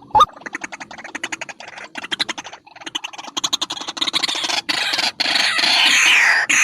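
White-breasted waterhen calling: a fast stuttering run of short clicking notes, then from about four seconds in louder, harsh calls that slide down in pitch.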